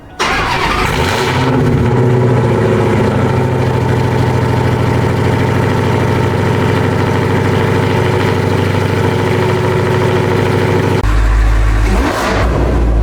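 Supercharged Dodge Hellcat V8 started just after an oil change: it catches at once and flares briefly, then settles into a steady idle. Near the end the low rumble grows much louder and deeper.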